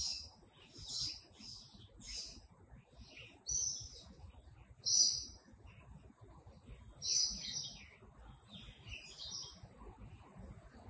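Birds chirping and calling: a run of short, high calls about once a second, the loudest about three and a half, five and seven seconds in. Underneath, a faint, very high pulsing that repeats at an even pace.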